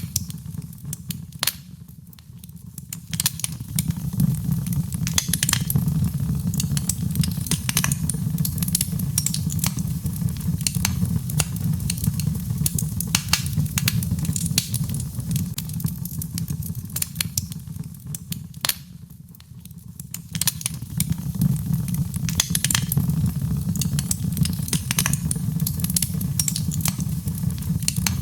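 Birchwood burning in a fireplace, crackling with frequent irregular sharp pops and snaps over a steady low rumble. The crackling briefly thins out about two seconds in and again around nineteen seconds in.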